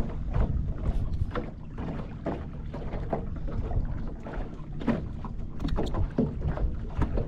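Wind rumbling on the microphone while water laps and slaps against a small fishing boat's hull in short, irregular splashes.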